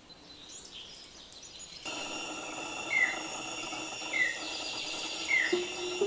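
Faint at first, then a bird's short downward chirp repeating about once a second, over a steady high-pitched whine, starting abruptly about two seconds in.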